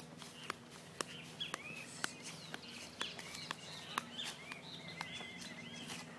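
Birds chirping in short repeated calls, with a sharp click about twice a second.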